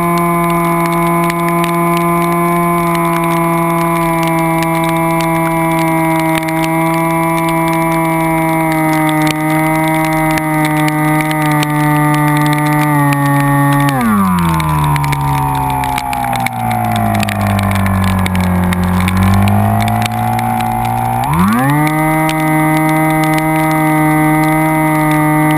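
A vehicle engine running at a steady speed, its pitch falling gradually about halfway through as it slows, then rising sharply back to the earlier pitch near the end.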